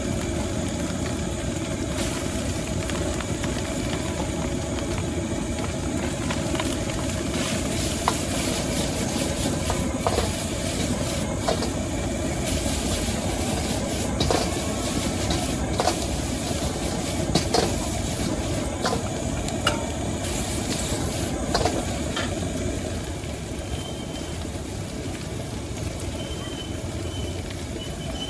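Stir-frying in a wok over a gas burner: a steady burner rush with food sizzling, and scattered sharp clacks of a metal spatula striking the wok every second or two. It eases off slightly near the end.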